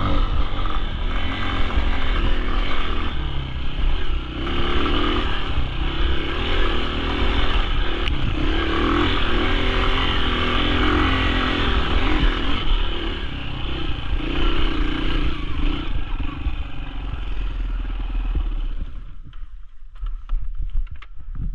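Dirt bike engine running and revving under load on a steep climb, with clattering and scraping. About two and a half seconds before the end the engine sound drops away, leaving low rumble and scattered knocks.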